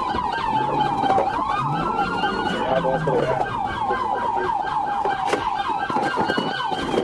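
Police sirens sounding together: one in a fast yelp of several falling sweeps a second, over a slower wail that rises and falls.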